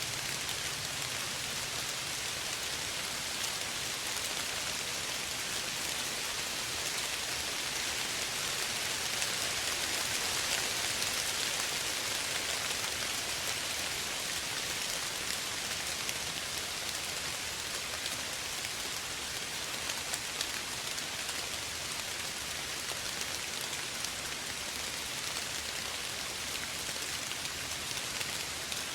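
Steady, gentle rain falling, an even hiss with scattered faint drop ticks.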